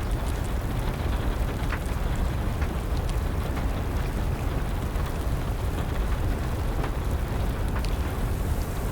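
Wood fire crackling, with a few sharp pops scattered through, over a steady rush of rain.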